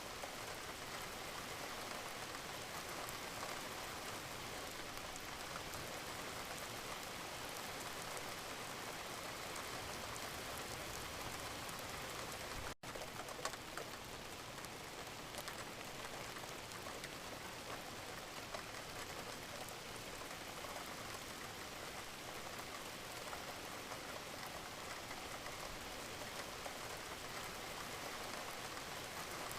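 Gentle, steady rain falling, an even hiss of many small drops with nothing standing out. About thirteen seconds in the sound cuts out for a split second and comes straight back.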